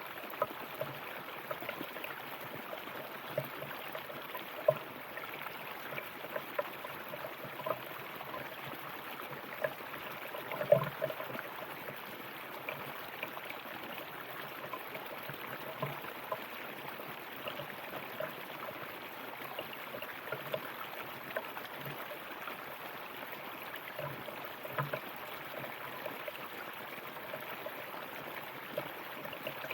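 River water flowing steadily, with small splashes and gurgles at irregular moments; the loudest splash comes about eleven seconds in.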